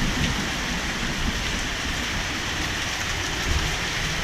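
Heavy rain falling steadily and pattering on water and hard surfaces, a dense even hiss.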